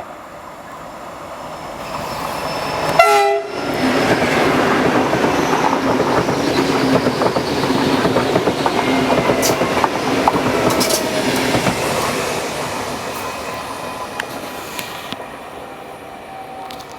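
Electric train passing close by. It sounds a short horn blast about three seconds in, then its wheels clatter over the track as it goes by, slowly fading away.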